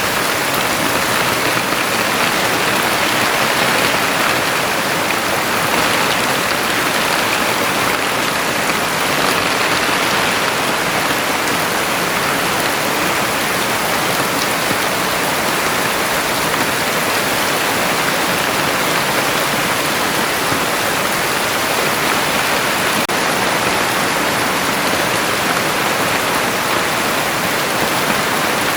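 Heavy rain falling steadily, a dense even hiss of drops on surfaces with no letup.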